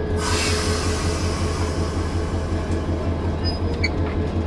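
Locomotive running steadily with a low, pulsing rumble and a steady hum. A burst of hissing at the start fades away over a second or so, and a few short high squeaks come near the end.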